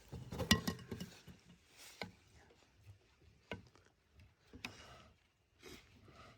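A cluster of small clicks and knocks in the first second, then a few single sharp clicks spaced about a second apart, like objects being handled.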